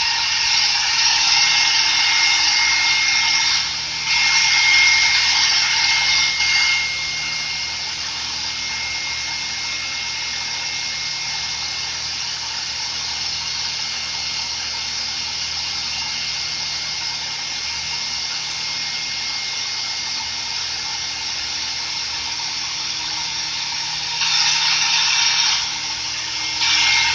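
2008 Yamaha R6 inline-four engine running at idle with its electric radiator fan on, a steady whirring hiss with a faint hum beneath. It grows louder for a few seconds near the start and again near the end.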